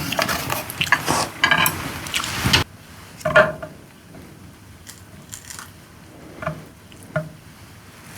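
Close-miked eating: chewing and wet mouth sounds, dense for the first two and a half seconds and then breaking off suddenly, followed by a few separate smacks.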